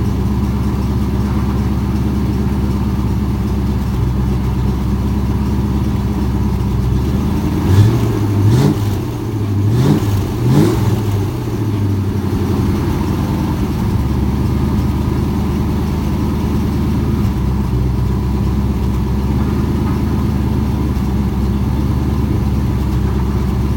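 Ford Mustang engine idling after a cold start, revved three times in quick succession about a third of the way in, then settling back to a steady idle.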